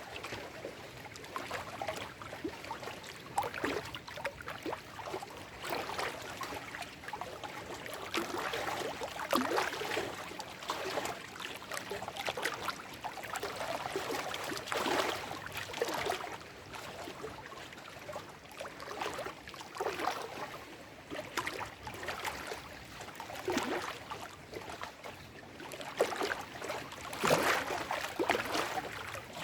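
Small lake waves lapping and splashing over shoreline rocks, with irregular splashes and gurgles every second or so and a louder cluster of splashes near the end.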